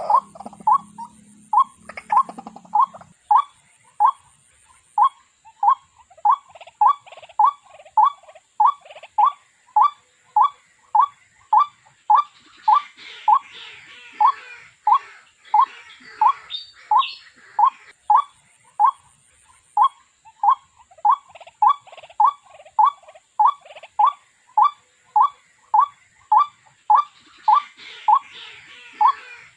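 Waterhen (jal murgi) calling: one short note repeated monotonously at an even pace, about one and a half to two notes a second, without a break.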